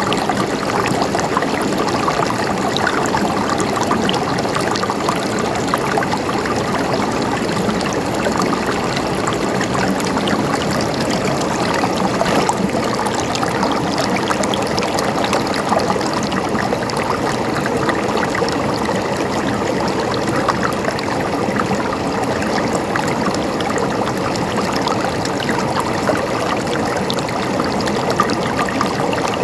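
Flowing water running steadily and without a break, a continuous rush with its weight in the middle of the range.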